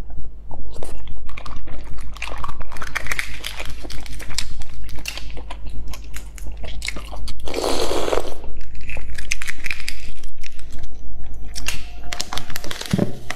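Close-up eating sounds of a boiled egg being chewed, with wet smacks and clicks, mixed with the cracking and peeling of eggshell by hand. One longer, louder noisy sound comes about eight seconds in.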